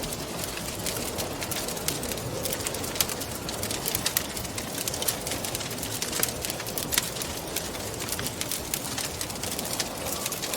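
Wood fire crackling in a fireplace, with irregular sharp pops and snaps, over a steady soft moan of wind.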